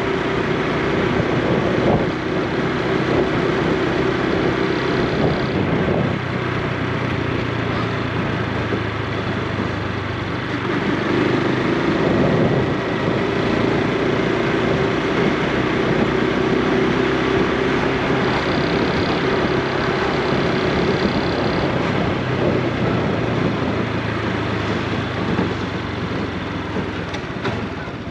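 Honda Super Cub C125's small single-cylinder four-stroke engine running on the move, its exhaust note stepping up and down several times with speed, over wind and road noise.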